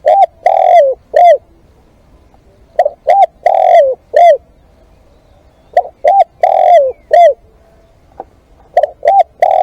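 Spotted dove cooing. Each phrase is two short coos, a long coo that falls in pitch at its end, and a final short coo, repeated about every three seconds.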